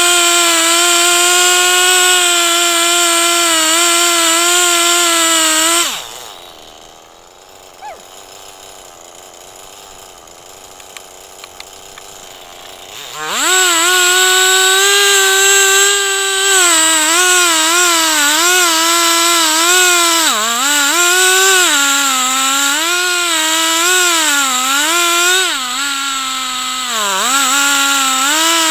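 Chainsaw on an Alaskan-style chainsaw mill running at full throttle. About six seconds in it drops to a low idle, and it is revved back up about seven seconds later. Its pitch then dips and wavers over and over as the chain loads up in the log.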